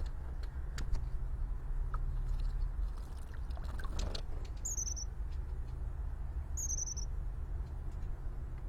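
Two short, high-pitched bird chirps, about two seconds apart, over a steady low rumble, with a few faint clicks earlier on.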